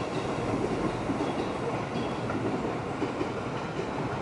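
Seibu electric commuter train running along the track, a steady rumble of wheels on rails.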